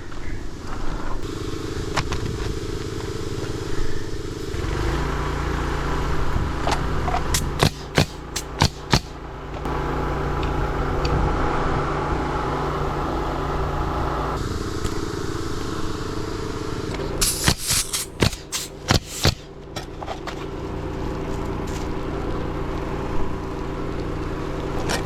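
A small gas engine, most likely the crew's gas-powered air compressor, runs steadily. Quick series of sharp shots cut through it twice, about 7 to 9 seconds in and again about 17 to 19 seconds in, typical of a pneumatic roofing nailer fastening shingles. The hum's tone shifts abruptly several times.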